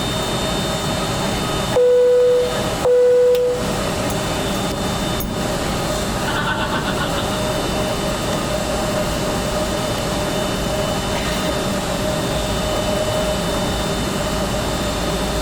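Steady cabin and engine noise of a Boeing 757-200 with Rolls-Royce RB211 engines, running evenly without spooling up. Near the start two loud beeps of the same pitch sound about a second apart.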